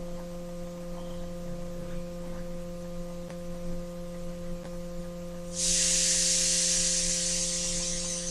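A steady low electrical hum; about two-thirds of the way in, a loud steady hiss starts abruptly and keeps going.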